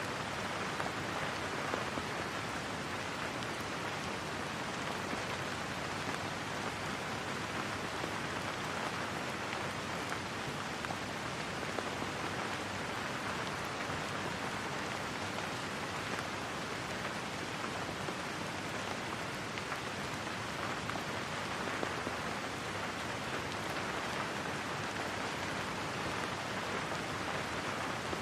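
Steady rain falling on a surface, an even, unbroken patter with no thunder.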